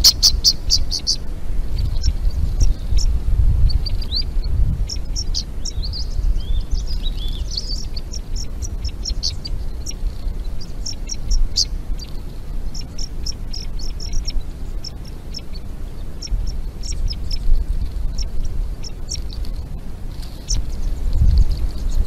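Small birds chirping, with many short high calls in quick succession over a low rumble. A rapid run of sharp clicks comes right at the start.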